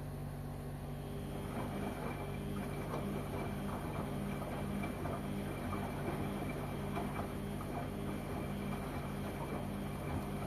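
LG washing machine running: a steady motor hum, joined about a second in by water and laundry churning and sloshing in the drum.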